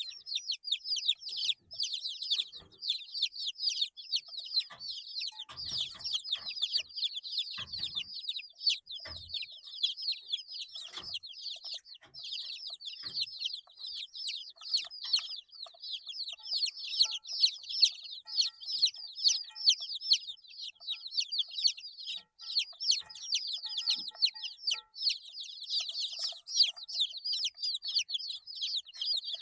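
A brood of eight-day-old chicks peeping continuously, with many short, high calls overlapping. A few soft knocks come in among the peeps about a third of the way in.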